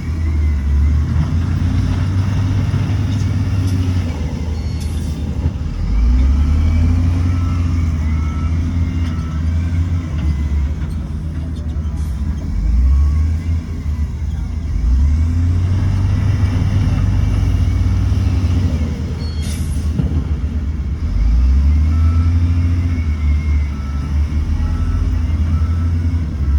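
Heavy diesel engine of a Shantui bulldozer, working in a deep drone that rises under load and eases off about every five to six seconds as the machine pushes and backs up. Faint short beeps repeat now and then.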